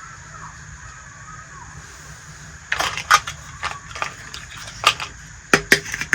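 Small toy kitchen pieces being handled: a run of about eight sharp clicks and taps starting about three seconds in, over a steady background hum.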